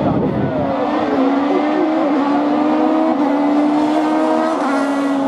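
Peugeot 308 Racing Cup race car engine held at high revs as it climbs the hill, one steady note slowly rising in pitch with a few brief dips.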